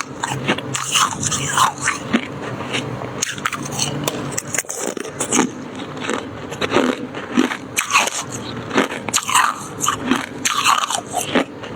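Close-miked crunching and chewing of freezer frost, soft white shaved ice, as many quick crisp crunches, one bite after another.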